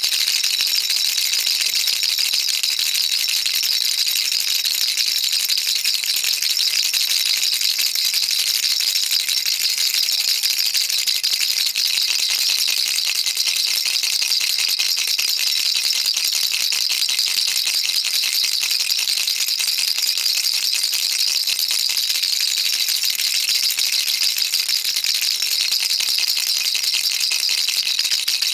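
Baby rattle shaken continuously, a dense, even stream of fine, high clicking with no pauses.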